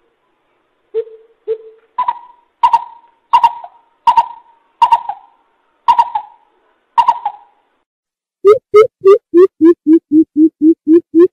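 Greater coucal calling. It gives two soft low hoots, then a string of sharper, higher notes about one every 0.7 s. After a short pause comes a fast run of deep hoots, about four a second, that dip in pitch and then rise again.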